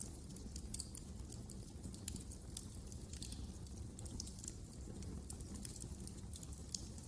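Wood fire crackling in a fireplace: frequent, irregular small pops and snaps over a steady low rumble.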